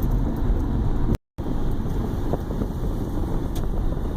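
Strong Santa Ana wind buffeting the microphone as a loud, gusty low rumble, cutting out for a moment about a second in.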